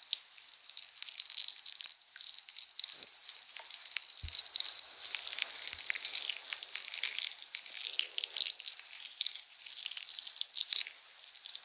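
Close-miked ASMR handling sounds of makeup items: dense crackling and crinkling with many small taps and clicks, and two soft low bumps a little past the middle.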